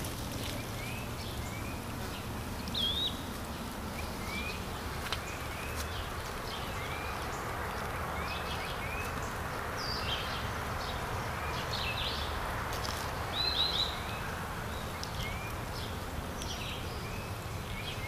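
Outdoor yard ambience: birds chirping with short, repeated notes scattered throughout, over a steady background hiss.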